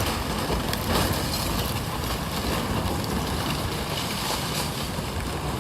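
Steady rushing noise of fast floodwater and strong wind, with wind buffeting the microphone.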